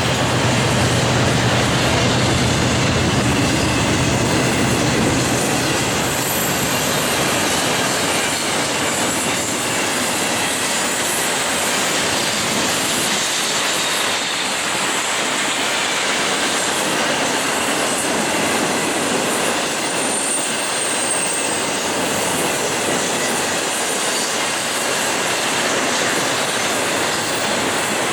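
Union Pacific double-stack intermodal freight cars rolling past, a steady rumble of wheels on rail with clickety-clack over the joints and a faint high wheel squeal. A low locomotive hum fades in the first few seconds.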